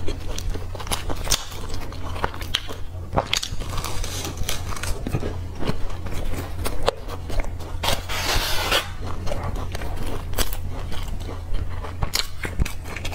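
Close-miked chewing and biting of a soft chocolate-filled bread roll: wet mouth sounds and frequent sharp clicks, with a burst of crinkly noise lasting about a second around eight seconds in. A steady low hum runs underneath.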